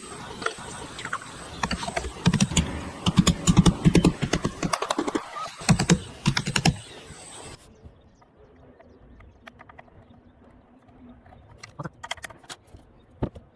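Rapid, irregular clicks and light knocks for about seven and a half seconds. Then the sound cuts off abruptly to a much quieter background with a few scattered clicks.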